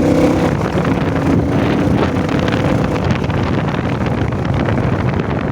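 Royal Enfield motorcycle running steadily while being ridden, its engine rumble mixed with wind buffeting the rider's microphone.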